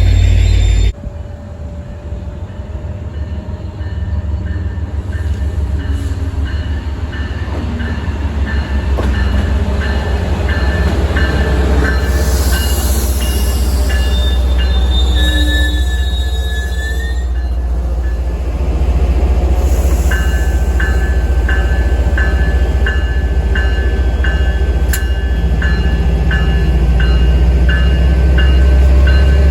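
Commuter train running past with a steady heavy low rumble and a regular metallic ding about one and a half times a second, with a brief wheel squeal near the middle.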